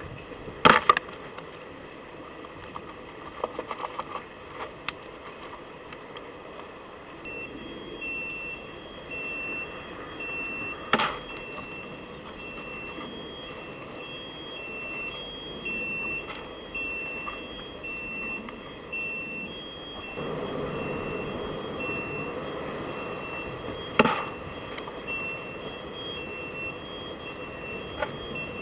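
Steady outdoor background with a few sharp knocks, and from about seven seconds in an evenly repeating electronic beeping at a fixed pitch.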